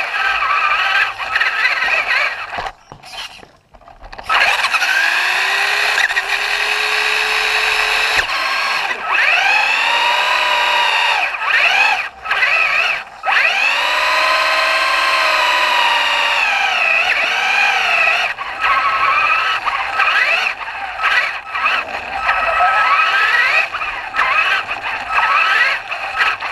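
Traxxas RC truck's motor whining as it revs up and down in long rising and falling sweeps, with short breaks about three and twelve seconds in.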